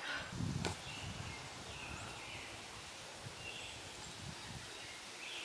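Outdoor ambience: a few short bird chirps over low rustling, with one sharp click under a second in.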